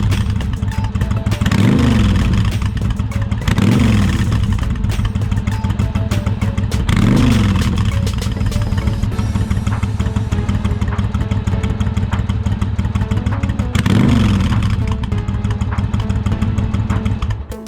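Yamaha XV1100 Virago's air-cooled V-twin idling through its exhaust, with four short throttle blips that rise and fall in pitch.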